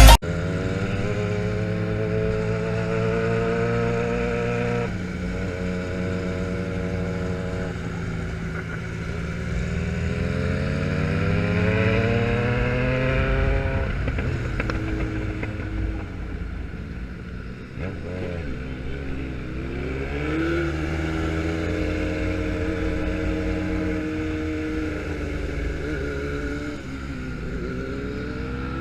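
Motorcycle engine pulling through the gears, its pitch climbing and then dropping back at each shift, several times over.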